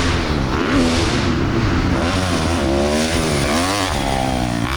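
Dirt bike engines revving on a motocross track, more than one at once, their pitch rising and falling as they accelerate and shift gears.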